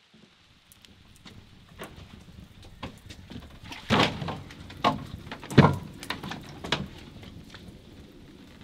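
Split firewood logs knocking and clunking as they are handled and set down on a stack, with four louder wooden knocks in the middle, the loudest about five and a half seconds in, among lighter clicks and rustling.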